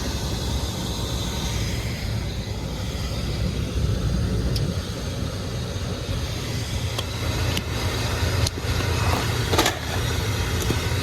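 York rooftop HVAC unit running, its blower turned by a newly tightened belt that is running smoothly: a steady low hum, with a few light clicks in the second half.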